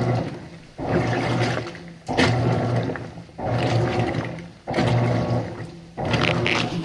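Whirlpool WTW5010LW top-load washer agitating a small load in the wash stage of its Quick Wash cycle. The motor hums and the water sloshes in regular strokes about every 1.3 seconds, each stroke starting suddenly and fading before the next.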